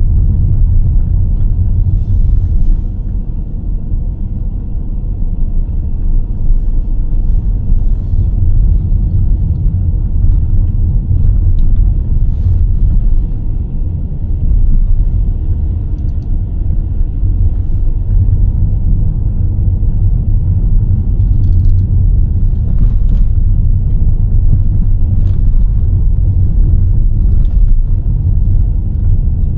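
Car driving along a rough, narrow road: a steady low rumble of engine and tyre noise, with a few faint clicks and knocks scattered through it.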